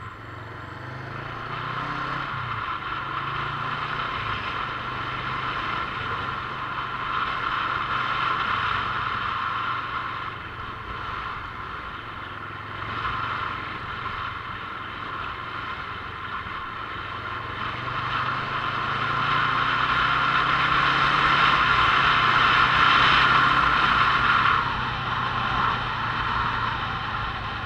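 Motorcycle being ridden: a steady low engine hum under loud wind and road noise. The noise swells for several seconds in the second half, then drops suddenly.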